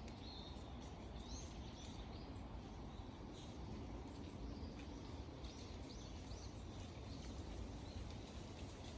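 Small birds giving short, high chirps scattered here and there, over a steady low background rumble.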